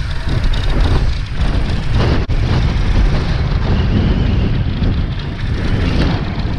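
Kawasaki Z1-R's air-cooled inline-four, breathing through CR racing carburettors and an NGC exhaust, running steadily at low revs with a deep, pulsing exhaust note.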